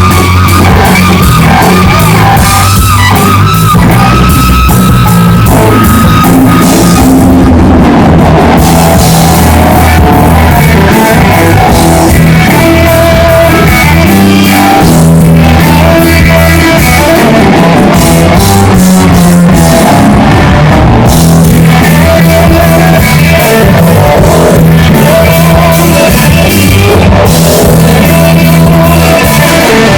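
Live rock band playing: electric guitar, bass and drum kit, with sung vocal lines over them.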